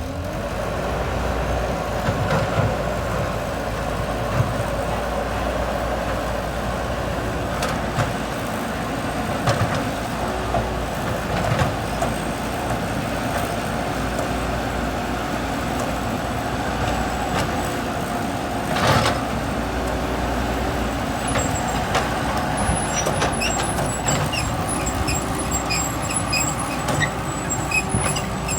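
Heavy vehicle engine running steadily under load, its pitch climbing right at the start. Occasional knocks, the loudest about two-thirds of the way through.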